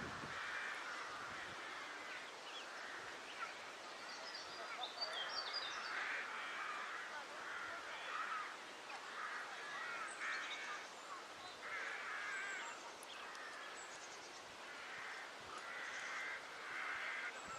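Crows cawing in a long string of harsh calls, about one a second, mobbing an intruder, with a few higher, thinner bird calls mixed in around the middle.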